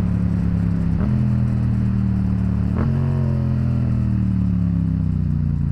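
Yamaha FZ-07's parallel-twin engine running under way, its pitch jumping up sharply twice (about a second in and again near three seconds) and each time falling away slowly.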